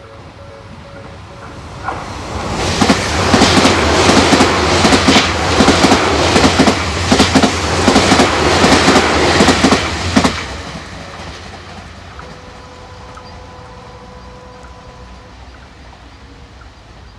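Multi-car electric commuter train passing close by, its wheels clattering rhythmically over the rail joints. The sound builds about two seconds in and cuts off sharply as the last car goes by, about ten seconds in.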